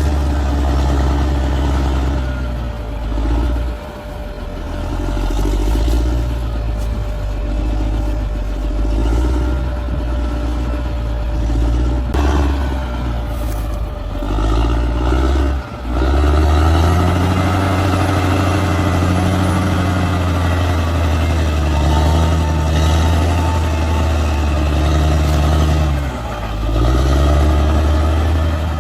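Heavy bulldozer's diesel engine working under load, the note swelling and easing as it pushes, and rising to a higher, steadier pitch about halfway through.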